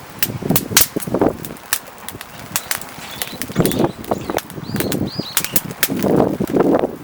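Wood fire in a small camping fire pit crackling, with sharp pops scattered irregularly throughout, and several gusts of wind buffeting the microphone.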